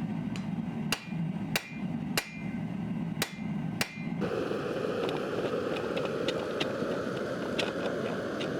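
Five sharp hammer strikes on a leather punching tool, about half a second apart. About four seconds in, they give way to a steady rushing noise with faint light ticks.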